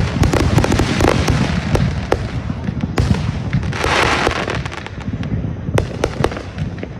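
Consumer fireworks going off in rapid succession: a dense crackle of sharp pops and bangs over a steady low rumble, with a hissing burst about four seconds in, thinning to scattered louder reports near the end.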